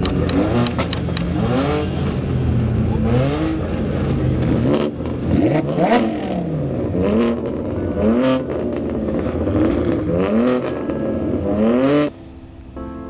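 High-performance car engines accelerating hard through the gears: the pitch climbs again and again and drops back at each shift, with sharp exhaust cracks and pops. The sound cuts off abruptly near the end.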